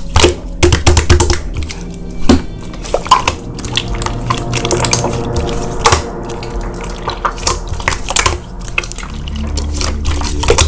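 Slime being squished and pressed by hand, making a run of wet clicks and pops, over steady background music.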